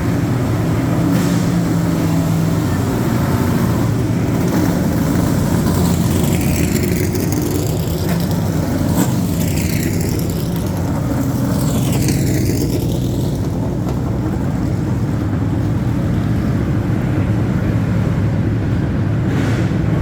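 ARCA Menards West stock cars' V8 engines running at low speed as the cars roll out, a loud steady rumble.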